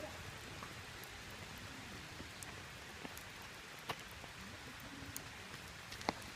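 Wood campfire crackling, a steady hiss dotted with small snaps and a few sharper pops, the loudest near the end.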